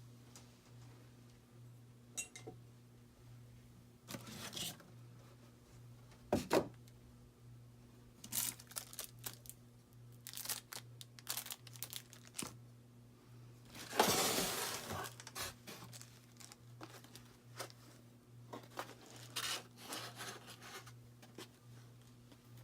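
Paper and cardboard packaging being handled and opened by hand: scattered rustling, crinkling and tearing with light knocks, and a louder tearing rush about fourteen seconds in. A steady low hum sits underneath.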